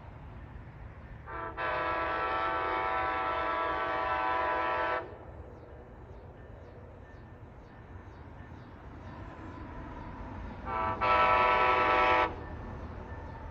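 MARC commuter train's locomotive horn, a multi-note chord: one long blast of about three and a half seconds, then about ten seconds later a shorter, louder blast, over a low rumble.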